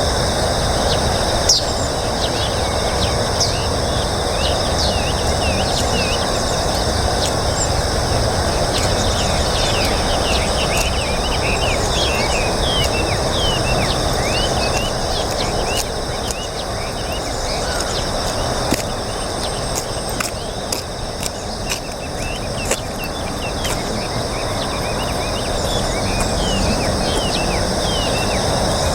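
Outdoor ambience: a steady low rushing noise under a steady high insect hiss, with many quick, high, downward chirps from small birds, thickest in the middle stretch.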